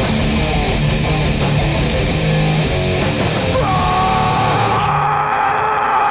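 Hardcore punk band playing live, with heavily distorted electric guitars, bass and drums chugging through the end of a song. About three and a half seconds in, the riffing gives way to a held, ringing guitar note.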